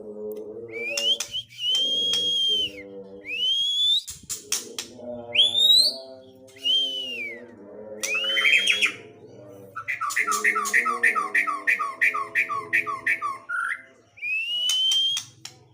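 White-rumped shama singing: loud, clear whistled notes that rise and arch, then, around ten seconds in, a rapid repeated phrase of about four notes a second lasting some three seconds. A lower, steadier call runs beneath much of the song.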